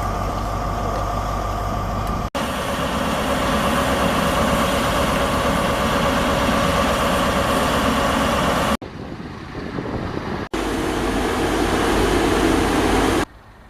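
Heavy vehicle engines running steadily, in several short clips joined by abrupt cuts; the sound drops much quieter near the end.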